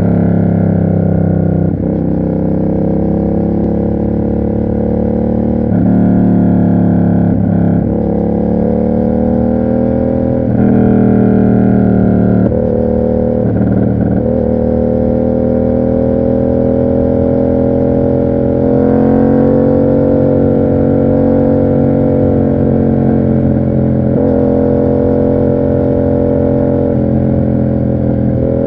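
Yamaha MT-07's parallel-twin engine running through an aftermarket SC Project exhaust while riding. The revs rise and level off, with brief drops in pitch at gear changes a few times.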